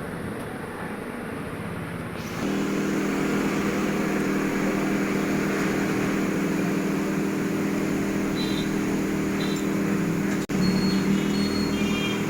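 A small electric motor or fan hums steadily. It switches on about two and a half seconds in, and there is one brief break near ten and a half seconds.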